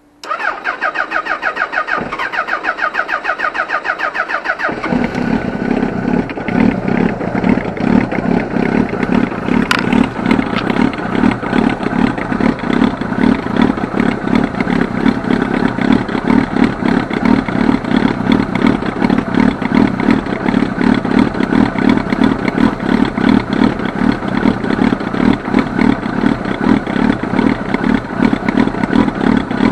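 Suzuki-engined Bimota motorcycle cranked on its electric starter for about four and a half seconds by a worn-out battery whose voltage sags to around 9 V under the load, then catching and running at a steady idle.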